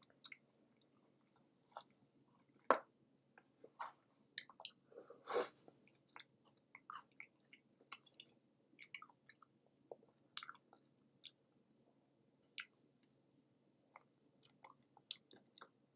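A person chewing a mouthful of cheeseburger, faint wet mouth clicks and smacks scattered irregularly, the sharpest click about three seconds in.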